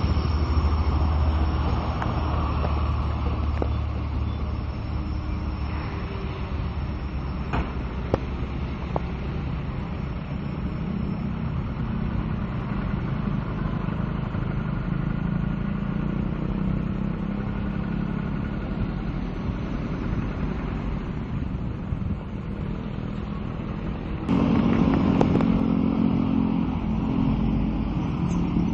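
Train running: a steady rumble with a few sharp clicks, growing louder about 24 seconds in.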